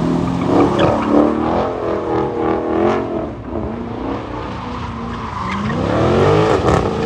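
Car engine revving up and down with tyre squeal, as at a car-meet burnout or donut. The revs climb in a long sweep near the end.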